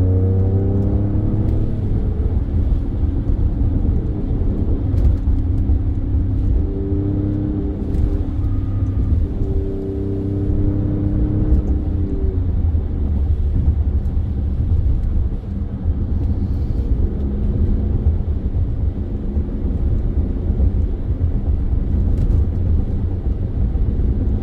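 Alfa Romeo Stelvio Quadrifoglio's twin-turbo 90-degree V6, breathing through aftermarket K&N air filters, running under load as the car is driven. The engine note climbs at the start and again for several seconds in the middle before dropping back, over a steady low rumble.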